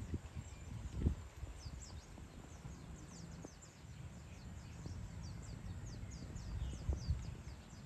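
Birds chirping: a quick run of short, high notes, each sliding down in pitch, several a second, over a low uneven rumble with a few soft bumps.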